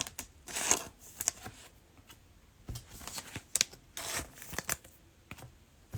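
Mosaic basketball trading cards being flipped and slid against one another in the hand, with irregular short swishes and clicks.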